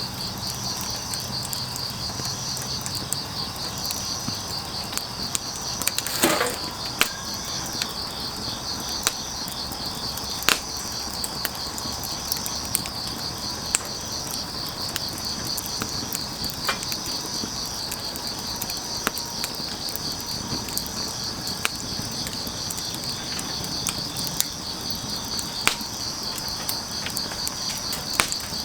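Crickets trilling steadily, with a slower chirp pulsing above the trill, while a wood fire gives scattered sharp crackles and pops, the loudest about six seconds in.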